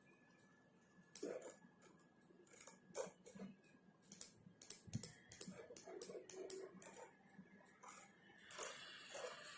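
Typing on a computer keyboard: soft, irregular keystrokes that begin about a second in, over a faint steady high whine.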